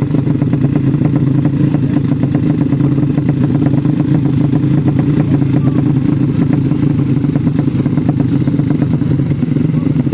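Motorcycle engines of Indonesian 'sleep engine' class drag bikes, running steadily and loudly at an unchanging pitch.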